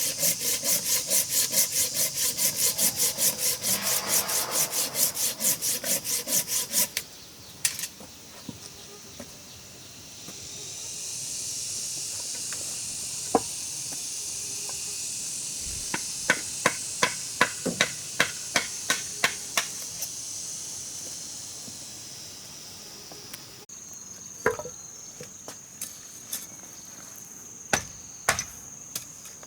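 Hand saw cutting through wood in fast, even strokes, about four a second, that stop about seven seconds in. A high, steady insect buzz follows, with a run of sharp wooden taps partway through.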